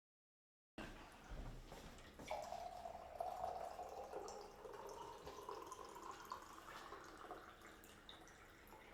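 Liquid pouring into a container, starting about a second in, its pitch rising slowly as it fills.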